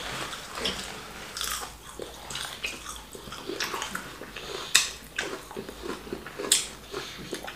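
Close-up eating sounds of people chewing plantain fufu with ogbono and egusi soup: soft chewing and mouth smacks with a few sharp clicks, the loudest about five seconds in and again about a second and a half later.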